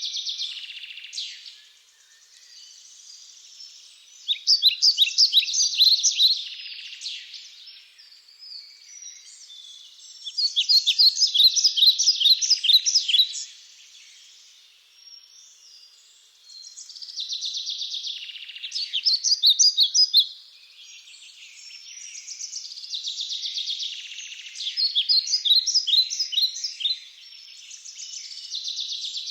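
Songbird singing in repeated phrases of quick, high notes, each a few seconds long, with softer chirping between the phrases.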